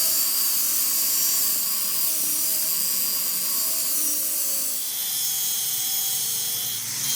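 A metalworking machine running with a steady high-pitched whine over a hiss, a few whining tones holding level.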